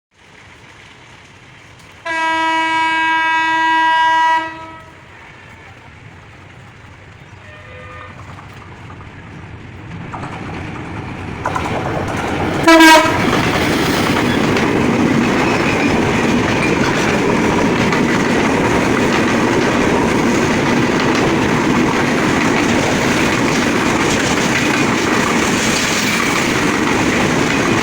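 Diesel locomotive horn blowing one long blast of about two seconds. An approaching train then rumbles louder, gives a short loud horn blast as it comes close, and passes with a steady rumble and clatter of wheels on rail joints.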